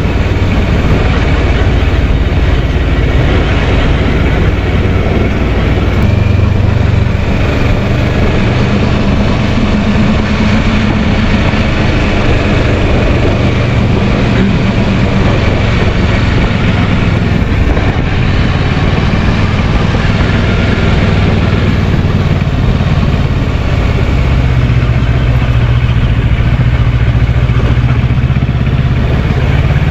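Kawasaki Versys 650 parallel-twin engine running steadily while riding, its note rising and falling a little with the throttle, over a constant rush of noise.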